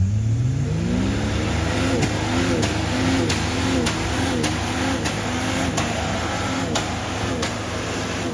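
Off-road vehicle engine revving up hard at the start, then its revs rising and falling over and over, with sharp clicks in between, as it works for grip on a rain-slick hillside.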